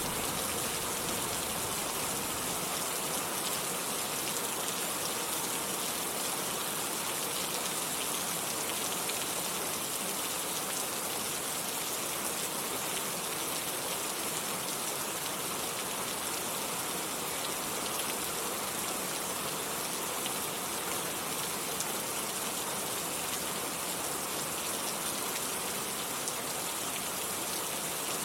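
Steady, even rainfall hissing and pattering on surfaces, with the low tail of a thunder rumble dying away in the first couple of seconds.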